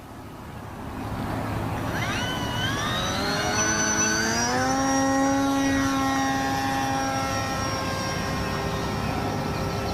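Fly Zone Tidewater RC seaplane's electric motor and propeller spinning up for takeoff from the water. The whine builds over the first couple of seconds, rises in pitch, then holds steady at climb throttle.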